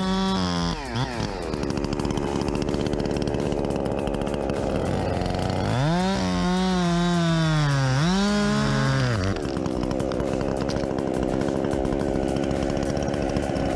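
Chainsaw running. It is revved up right at the start, and again to a high pitch about six seconds in, dipping once before it drops back a little after nine seconds.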